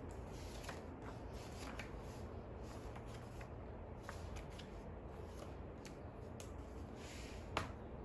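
Soft rustling and light clicks from paper and stationery being handled at a desk, over a low steady hum, with one sharper click near the end.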